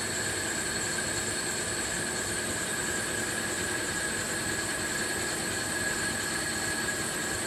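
CNC machine running steadily under its automatic program, a constant machine noise with a steady high whine made of several tones.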